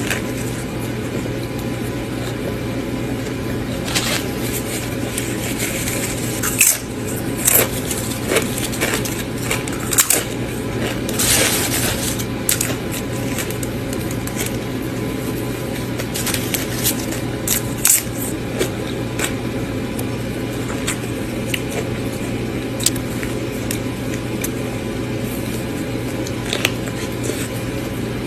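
Subway sandwich being eaten close to the microphone: bites and chewing, heard as scattered crisp crunches and crackles, most of them in the first two-thirds, over a steady low hum.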